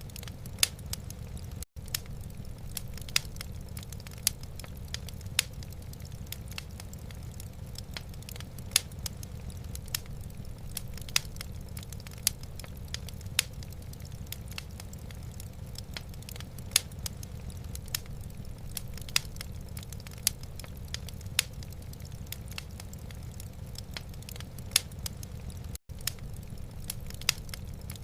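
Wood fire in a fireplace crackling, with irregular sharp pops and snaps, several a second at their busiest, over a steady low rumble. The sound cuts out for an instant twice.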